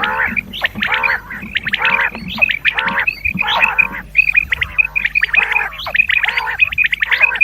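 Recorded common quail calls on a hunting lure track: a dense run of short, high, quickly repeated notes mixed with lower, harsh, croaking calls.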